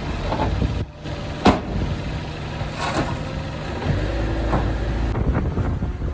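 Diesel engines of heavy earthmoving machinery running, with one sharp knock about a second and a half in and a few lighter knocks after it.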